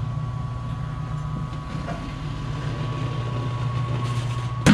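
A motor-driven machine runs steadily with a low hum and a faint high whine, then cuts off abruptly near the end.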